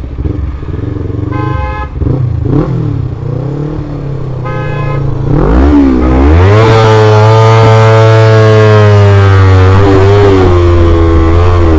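Road traffic heard from a moving motorcycle: two short vehicle horn beeps, then about halfway a loud, long horn blare that rises in pitch and holds steady until near the end.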